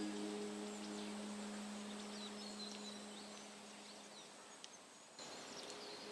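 A singing bowl's ringing tone slowly dies away, under a bed of short, high bird chirps and a faint hiss. About five seconds in, the background steps up a little louder.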